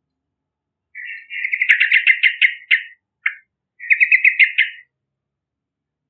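Yellow-vented bulbul singing: two bubbly phrases of quick, rapid notes, the first about a second in and the second near four seconds, with a short single note between them.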